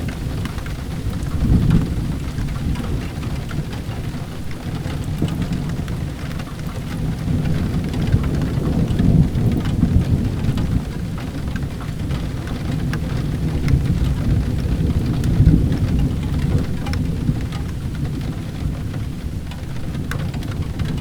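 Steady rain with low, rolling thunder that swells several times, and scattered faint crackles over the top.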